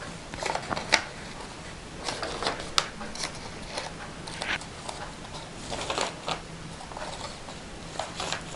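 Paper pages and pockets of a handmade journal being handled and turned: irregular light rustles and soft clicks.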